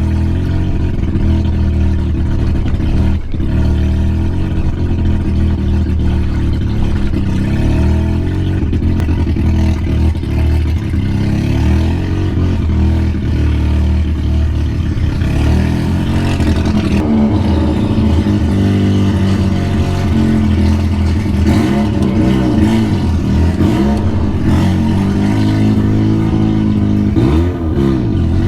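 Mazda RX-7's turbocharged 13B rotary engine running loud through an open exhaust cutout, with a lot of echo. The pitch swings up and down in the second half as the revs rise and fall.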